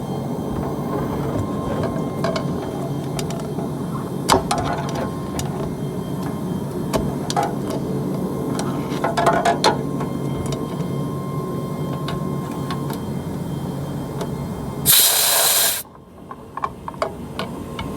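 Steady mechanical running with scattered clicks and taps, then a loud burst of compressed air hissing about fifteen seconds in, lasting under a second. The running background stops right after it.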